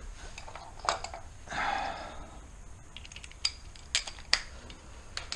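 Metal hand tools and parts clinking and knocking during engine teardown work: scattered sharp clicks, several in quick succession in the second half, with a short rushing sound about a second and a half in.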